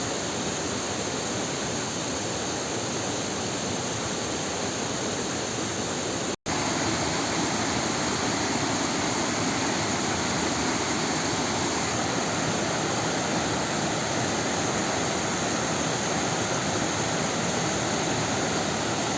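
Waterfall rushing: a steady, even noise of falling water. It cuts out for an instant about six seconds in and comes back slightly louder.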